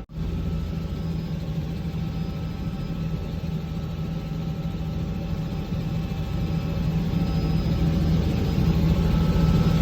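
Helicopter engine and rotor running with a steady low hum that slowly grows louder.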